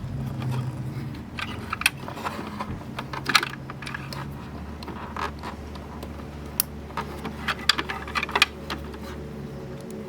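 Scattered light clicks and metallic clinks of small parts and tools being handled by hand, over a low steady hum.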